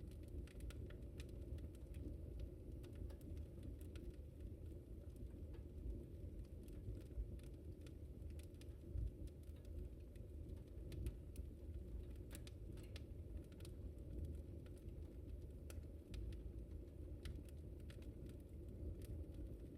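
Wood fire crackling in a fireplace: irregular sharp snaps and pops scattered over a steady low rush of the burning fire.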